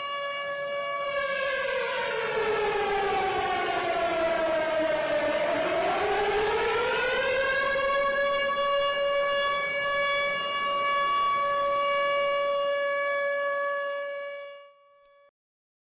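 Air-raid siren wailing: one steady tone holds while a second one falls in pitch for several seconds and climbs back up to join it, then the sound fades out near the end.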